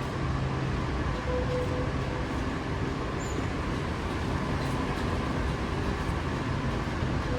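Steady rushing hum of an underground metro station platform, with no train moving through.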